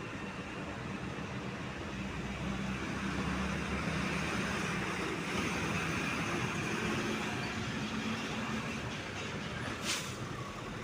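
Heavy truck engine running steadily amid road noise in slow traffic, with a single sharp click near the end.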